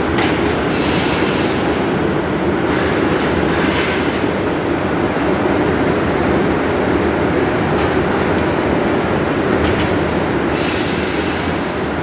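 Steel rolling mill running with a loud, steady machinery rumble as flat bar is rolled, with brief high-pitched screeches now and then.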